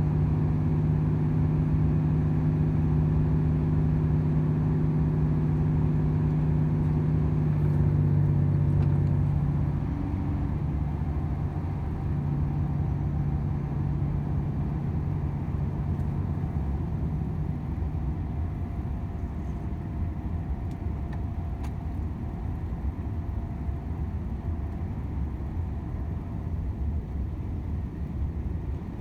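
Volvo FH 500 truck's diesel engine running with a steady drone. About ten seconds in, the engine note falls away and the sound turns mostly to an even rolling road noise.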